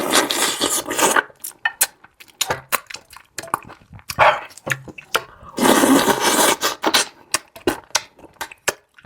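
Close-miked mouth sounds of someone eating: many short wet clicks and smacks of chewing, with two longer noisy stretches, one at the start and one about six seconds in.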